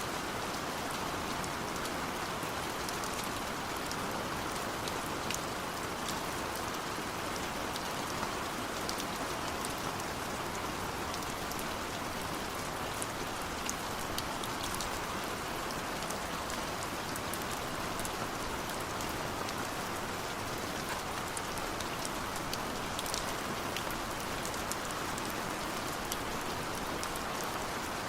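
Steady rain falling on a surface: an even hiss with many fine drop ticks and no lulls.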